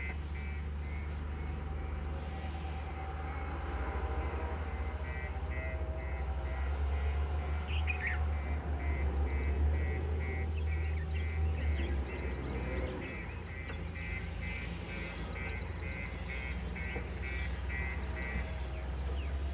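Heavy diesel machinery running with a steady low rumble that grows a little louder in the middle. Over it, from about a quarter of the way in until near the end, comes a fast, evenly repeating high-pitched chirping beep.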